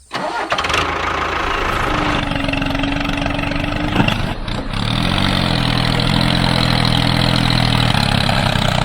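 Tractor engine running, its note shifting about halfway through, then settling into a steady idle.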